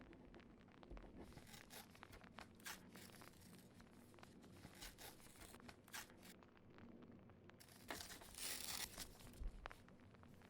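Faint scratching and ticking, then a sheet of paper torn for about a second and a half, roughly eight seconds in.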